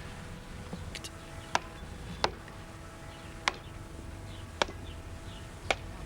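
About six sharp strikes at uneven intervals, each leaving a brief metallic ring: a splitting wedge driven with a hammer to split a sweet chestnut trunk into blanks.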